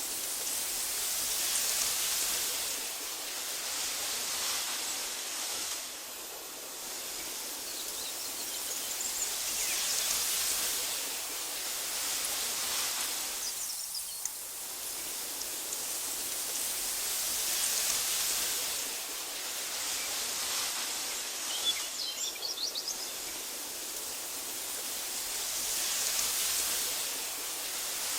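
Wind rustling through tall meadow grass, swelling and easing in slow gusts about every eight seconds. A few short, high bird chirps come in near the middle and again about two-thirds of the way through.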